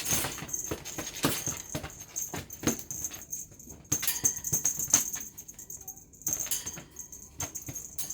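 Kittens at play: quick scrabbling, rustling and clicking, with a light rattling jingle throughout.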